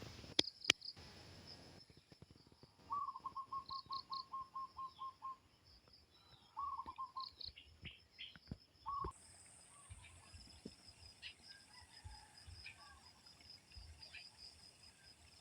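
Faint rice-field ambience: a bird calling in rapid runs of repeated notes, about five a second, with high, steady insect or bird chirping throughout that strengthens about halfway through. Two sharp clicks sound near the start.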